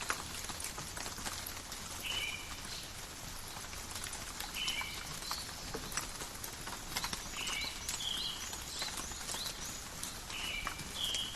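Steady rain falling through forest, with a dense patter of individual drops. A bird repeats a short two-part call every two to three seconds, and fainter, higher chirps come and go.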